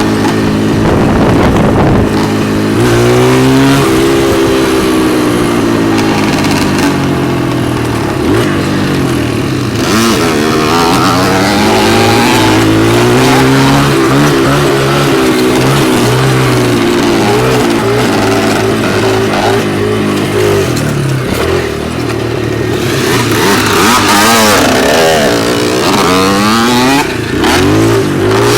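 Dirt bike engine running under load on a trail, revving up and dropping back again and again as the rider works the throttle and shifts gears. In the later seconds a second engine's pitch briefly crosses the first.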